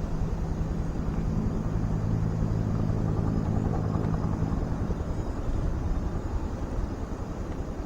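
Low, steady engine hum over a rumble, the hum fading out about five seconds in.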